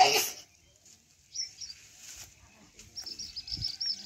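A short, loud burst of noise right at the start, then from about three seconds in a small bird sings a fast run of high chirps, several a second.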